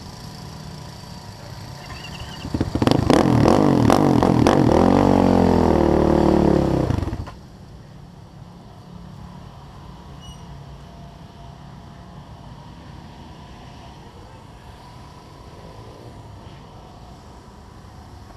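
A quad's engine runs loud and close for about four and a half seconds, its pitch rising and then falling as it revs, then cuts off abruptly. A low engine hum carries on underneath.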